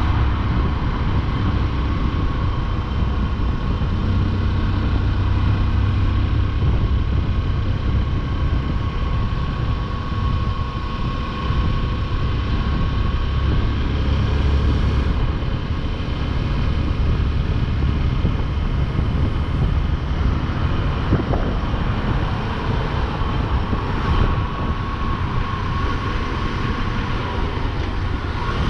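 Motorcycle riding along at a steady pace: constant engine and road noise with no sudden changes.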